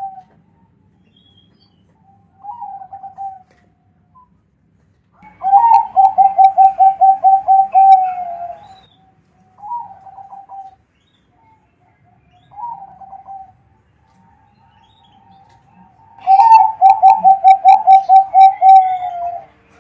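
Zebra dove (perkutut) cooing. It gives several short coo phrases and two long runs of about a dozen quick, evenly spaced coos, the first about five seconds in and the second about sixteen seconds in.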